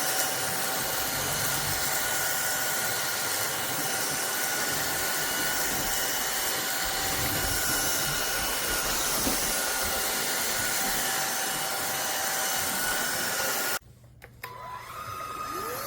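Cordless stick vacuum running steadily: an airy rush with a high motor whine. About 14 seconds in it cuts out suddenly with a click, then starts again, the whine rising in pitch as the motor spins back up.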